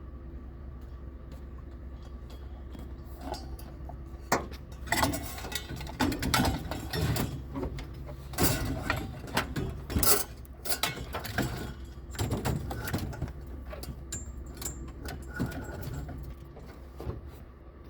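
Irregular clicking, knocking and rattling starting about four seconds in, over a steady low hum.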